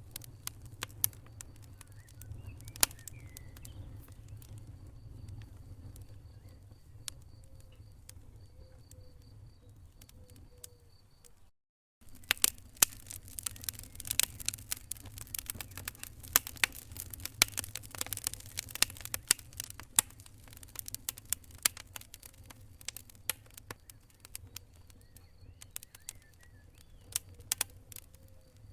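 Wood fire crackling and popping in a fireplace: irregular sharp snaps over a steady low rumble of the flames. The sound cuts out completely for about half a second near the middle.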